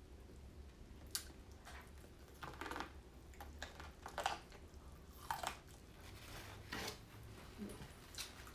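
A person chewing and biting corn on the cob, with irregular crunching bites about once a second.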